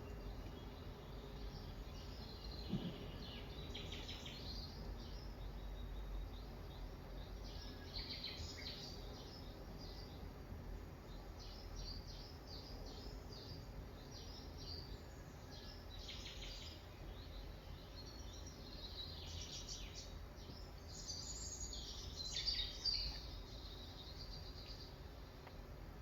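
Birds chirping and twittering in repeated bursts over a steady low hum, with one soft knock about three seconds in.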